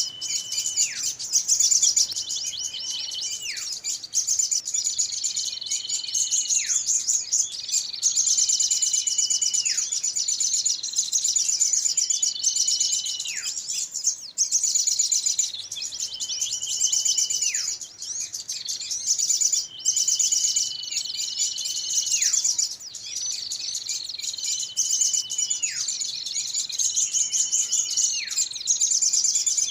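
Lure recording of small birds in a noisy commotion: dense, rapid high chirping throughout, over a repeated whistle that holds one pitch for about a second and then falls sharply, roughly every two seconds.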